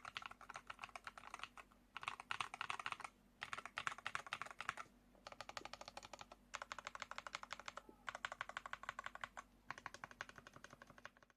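Fast typing on a Hall-effect magnetic-switch mechanical keyboard: rapid keystrokes in runs of one to two seconds with short breaks, stopping abruptly near the end.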